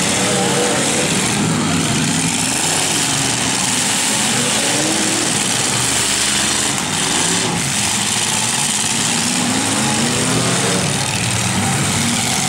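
Engines of several demolition-derby trucks running hard at once, their pitch rising and falling as they rev.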